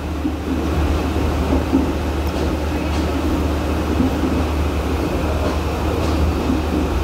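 Steady low rumble of a moving passenger train heard from inside the carriage, with a couple of faint clicks.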